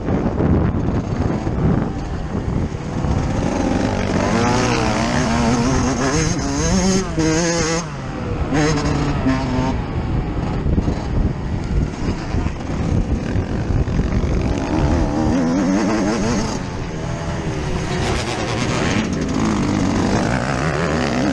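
Yamaha YZ125's single-cylinder two-stroke engine heard from on board while being ridden, its pitch repeatedly climbing and dropping as the throttle is opened and shut.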